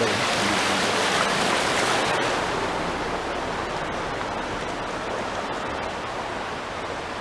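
Steady rushing noise of typhoon rain and water, with its high hiss easing about two seconds in.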